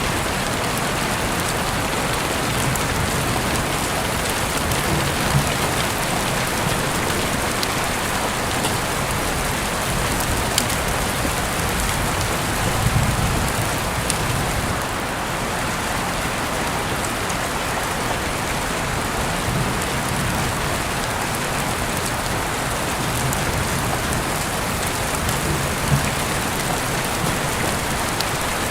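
Heavy rain falling steadily in a dense, even hiss, with a few soft low thumps every several seconds.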